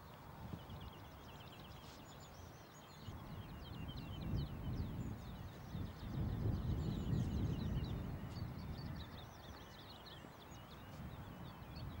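Small birds singing, a stream of quick high chirps, over a low rumbling noise that swells louder from about four to eight seconds in.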